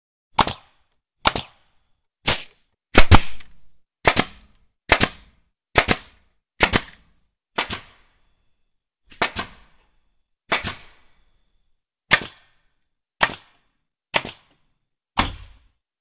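Nail gun firing nails one at a time: about fifteen sharp shots, roughly one a second, with a longer pause about halfway through.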